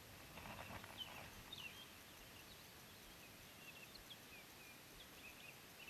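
Faint birds chirping: many short, high calls scattered throughout, with a brief soft rustle about half a second in.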